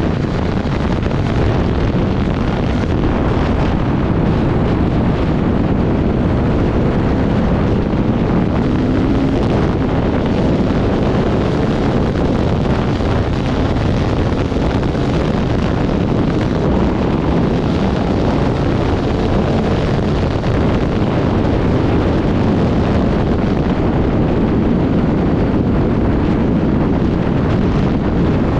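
Off-road motorcycle running at speed across desert terrain, its engine buried under heavy wind buffeting on the microphone; a loud, steady rush with no distinct changes.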